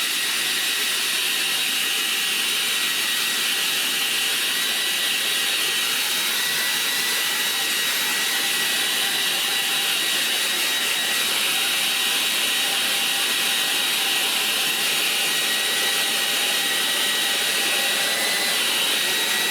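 Hair dryer running steadily, a constant blowing rush with a thin high whine, used to dry wet watercolour paint on the paper.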